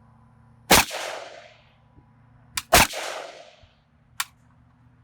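Two rifle shots about two seconds apart from an Arsenal SLR 107F, an AKM-pattern rifle firing 7.62×39 mm ammunition. Each shot has a fading echo behind it.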